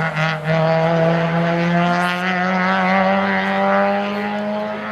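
Rally car engine pulling hard under acceleration. Its pitch drops at a gearshift right at the start, then climbs steadily through one long gear.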